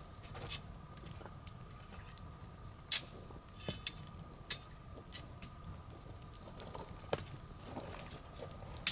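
Wood burning in an open bonfire, crackling with irregular sharp pops, the loudest about three seconds in, near four and a half seconds, about seven seconds in, and near the end.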